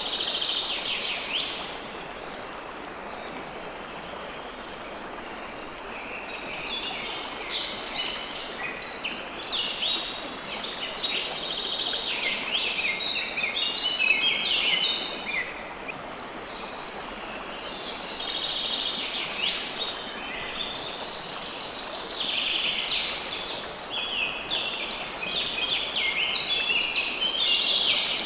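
A river flowing with a steady rush, under birds singing in long bouts of rapid chirps and trills that are louder than the water. The birdsong breaks off for a few seconds early on and briefly again around the middle.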